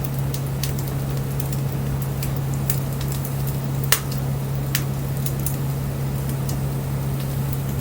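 Wood bonfire crackling, with irregular sharp pops and a louder pop about four seconds in, over a steady low hum.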